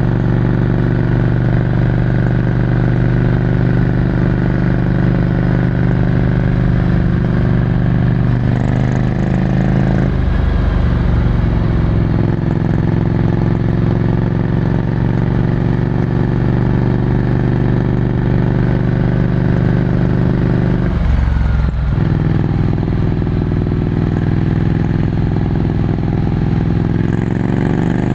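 Ducati Scrambler Desert Sled's air-cooled L-twin engine running through a full Termignoni exhaust, heard onboard while riding. The engine note is mostly steady. It drops sharply in pitch about ten seconds in, dips briefly again a little past twenty seconds, and rises as the revs climb near the end.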